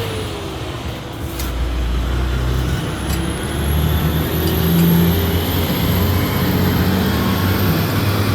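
A motor vehicle's engine running steadily, its low drone shifting in pitch now and then.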